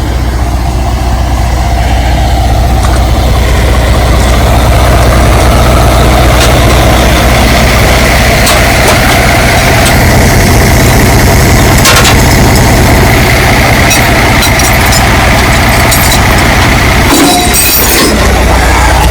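Tow truck engine running steadily, rising in level over the first few seconds and then holding, while it works to rock a stuck pickup loose. A few faint clicks come midway and there is a brief dip near the end.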